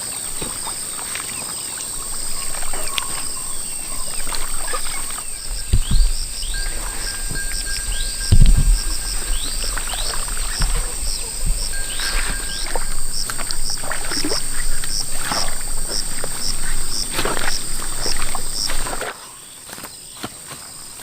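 Steady high-pitched insect drone with a rapid train of repeated chirps over it, plus scattered clicks and a couple of low thumps. The drone and chirps cut off abruptly near the end.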